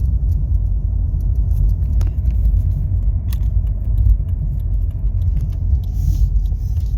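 A Jeep driving: a steady low rumble of engine and road noise with a few light clicks and rattles.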